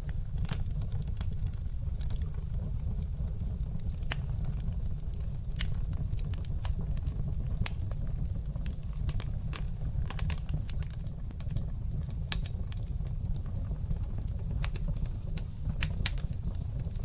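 Wood fire crackling in a fireplace: frequent sharp pops and snaps, irregular and sometimes in quick clusters, over a steady low rumble of the burning fire, with one louder pop near the end.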